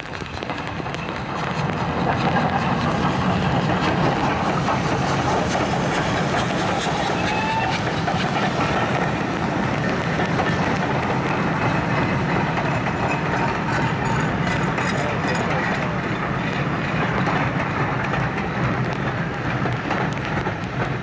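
Steam-hauled passenger train passing close by, its coaches rolling along the rails. The sound rises over about the first two seconds and then stays steady and loud as the carriages go past.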